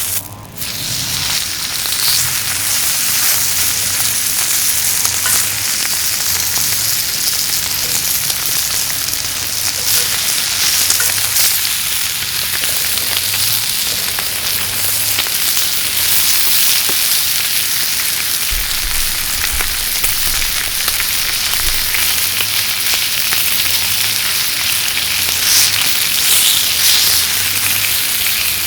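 Meat sizzling steadily as it grills on top of a kerosene heater.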